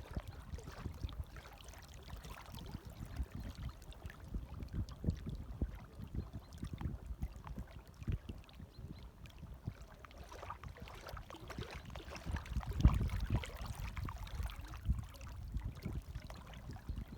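Light waves lapping gently, in uneven splashes and gurgles, with a louder wash about thirteen seconds in.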